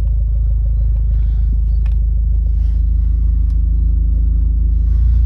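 Mitsubishi Lancer Evolution IX's turbocharged 2.0-litre four-cylinder engine idling, a steady low rumble that grows slightly louder near the end.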